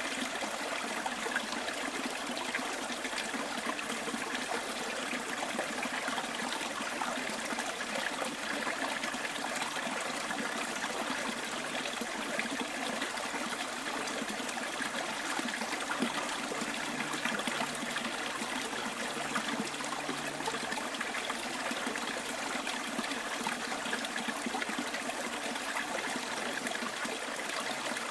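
Bush stream trickling and babbling, a steady, unbroken rush of running water.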